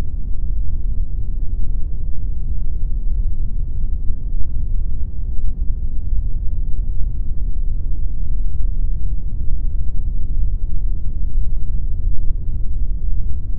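Steady pink noise: a constant, even rush of noise with most of its weight in the low end and little treble.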